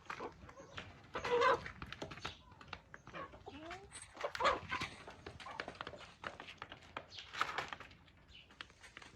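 Local chickens clucking, with louder calls about a second and a half in, halfway through and near the end, among many short clicks.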